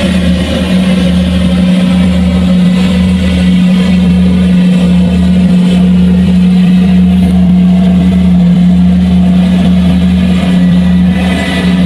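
Farm machine engine running steadily at a constant pitch, a loud even hum with no change in speed.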